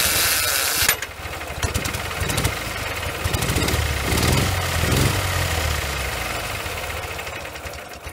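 Ural motorcycle's opposed flat-twin engine, fed on one cylinder only, running after a harsh noisy burst in the first second. It runs with rough, even firing, picks up briefly about four to five seconds in, then dies away near the end.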